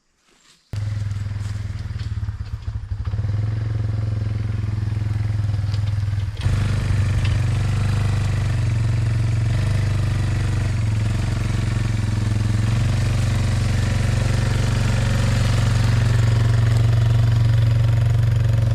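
Small gasoline engine starting suddenly and then running at a steady speed, a little louder from about six seconds in.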